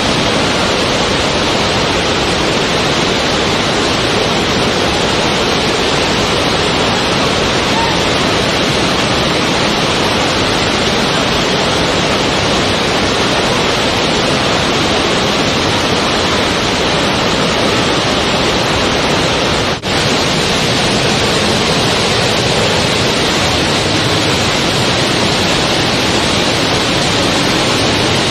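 Waterfall: a loud, steady rush of falling water with no rhythm or surge, with a brief dip about two-thirds of the way through.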